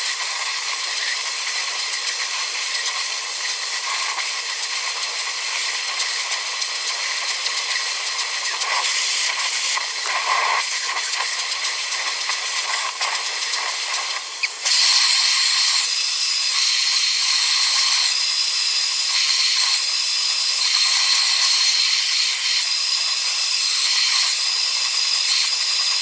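Tideway titanium-edition hair dryer blowing steadily, the sound sped up as the footage is fast-forwarded. It gets louder about fifteen seconds in.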